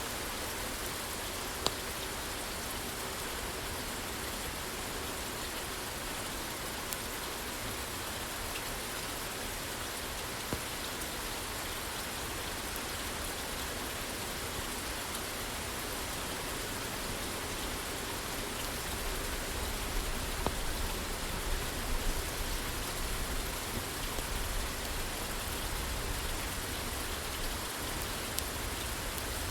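Steady rain falling on a roof, with a few sharp pops from a crackling wood fire. A low rumble swells for several seconds past the middle.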